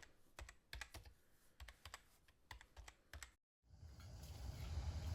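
A quick, irregular run of sharp light clicks and taps, cut off abruptly about three and a half seconds in. After a short gap, a steady low rumble with faint hiss begins.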